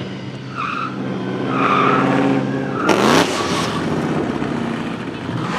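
Drift car's engine revving hard while its tyres squeal and skid. The revs climb sharply to a loud burst about three seconds in, and another burst comes near the end.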